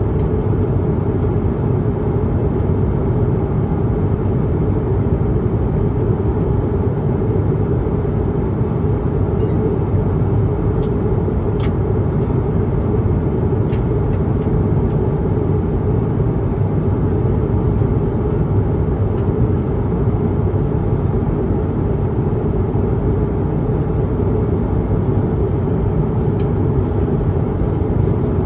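Steady in-flight cabin noise inside an Airbus A220-300: the rush of air over the fuselage mixed with the deep drone of its Pratt & Whitney PW1500G geared turbofan engines. A couple of faint ticks are heard about halfway through.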